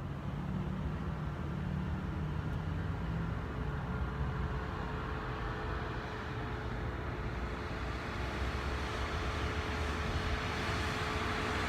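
A car's engine and road noise, steady throughout, with a faint steady whine joining about halfway and the sound growing a little louder near the end.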